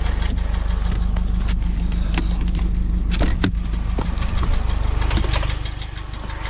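Suzuki Antelope's small petrol engine idling with a fast, even ticking from the valvetrain. The owner takes it for a failing hydraulic valve lifter.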